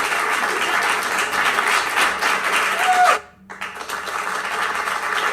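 Crowd applause, a dense patter of many hands clapping with a few voices mixed in. It breaks off abruptly about three seconds in for a moment, then resumes.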